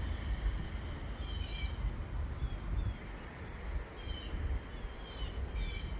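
Songbirds chirping in short, high calls that come every second or so, over a steady low rumble.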